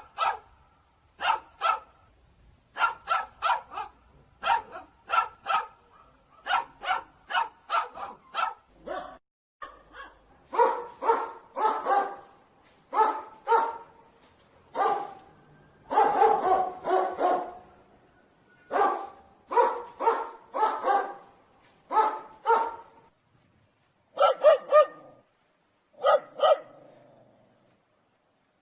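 A dog barking in quick runs of two to five barks, with short pauses between runs. The last few barks are lower in pitch.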